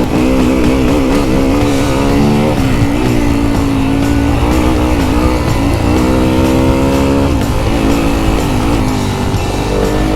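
Enduro motorcycle engine being ridden hard, revving up and falling back as the throttle opens and closes, with a pitch drop a couple of seconds in and another past the middle. A low rumble runs underneath.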